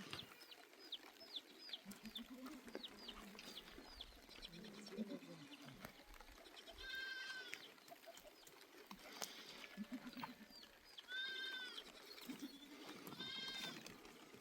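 Goats and sheep of a herd bleating, with many calls overlapping, some high-pitched and some lower.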